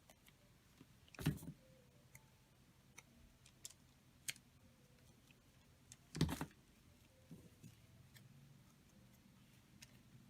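Handling of craft supplies on a work table: scattered small clicks and taps, with two louder knocks, one about a second in and one about six seconds in, as things are set down.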